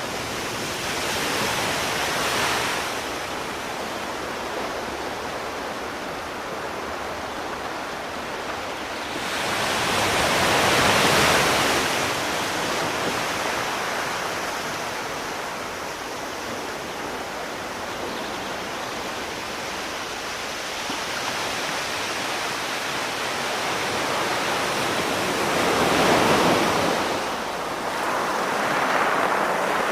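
Sea waves washing ashore, a steady hiss of surf that swells into louder surges four times: near the start, about 11 seconds in, and twice near the end.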